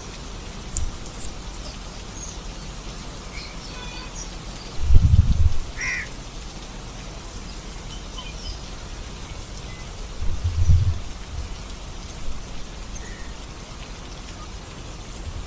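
Steady rain, an even hiss throughout. Two short low rumbles come about five and ten seconds in, and a few faint bird chirps sound over the rain.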